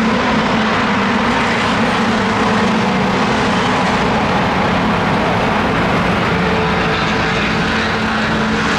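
Steady engine drone: an unchanging low hum under loud, even mechanical noise, with no rise or fall in pitch.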